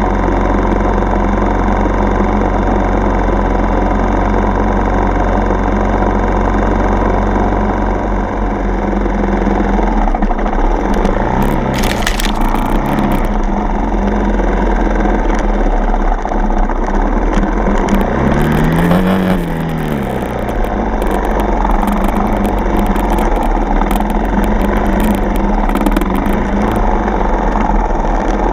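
Dirt bike engine running under way, its revs rising and falling a few times midway. Brief knocks and scrapes come through around the same time.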